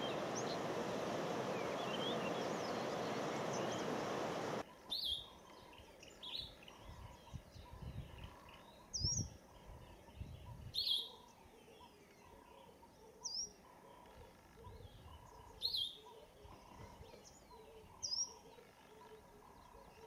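A steady hiss of noise that cuts off suddenly about four and a half seconds in. Then a bird gives short, sharp high calls, one every two to three seconds, with faint twittering between them.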